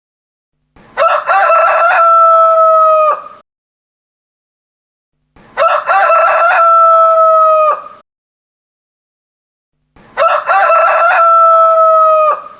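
Rooster crowing three times, a few seconds apart. Each crow is about two and a half seconds long: a few short broken notes, then one long held note that drops off at the end.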